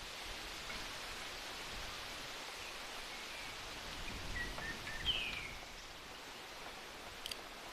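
Steady rush of river water, with a few short bird chirps around the middle, the loudest a quick falling chirp, and a faint click near the end.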